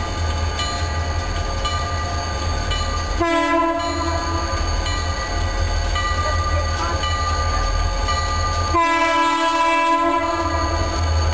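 Diesel locomotive air horn sounding twice, a short blast about three seconds in and a longer one about nine seconds in, over the steady low rumble of the train.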